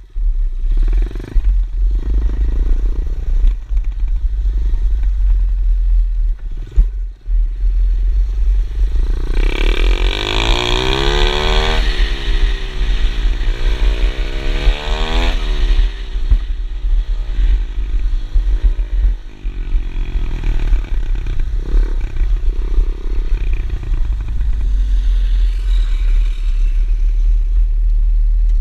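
Small pit bike engine running, its revs rising and falling several times for a stretch in the middle, over a steady low rumble throughout.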